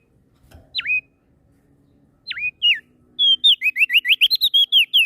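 Prenjak daun songbird singing clear whistled notes. First come single notes that swoop sharply down and back up, a second or so apart. From about three seconds in it breaks into a fast run of whistles, about eight a second, and this run is the loudest part.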